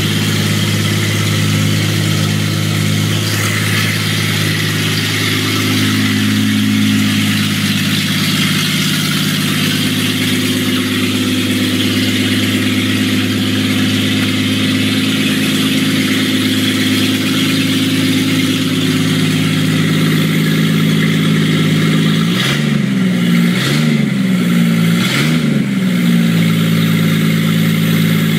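1982 Jaguar XJS's V12 engine running loud with no exhaust fitted, idling steadily. Near the end it is blipped three times in quick succession, the revs rising and falling each time.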